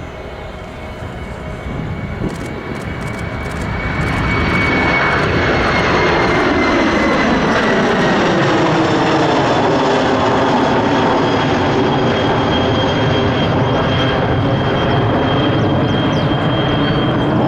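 Kawasaki P-1 maritime patrol jet's four IHI F7-10 turbofans at takeoff power as it rolls and climbs out. The jet noise swells over the first four seconds or so, then holds loud and steady with a high whine.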